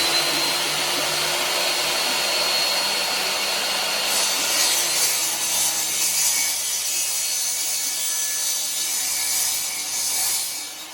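Power saw cutting metal stock for a welded rack: a steady high motor whine over a loud, continuous cutting noise, dying away at the very end.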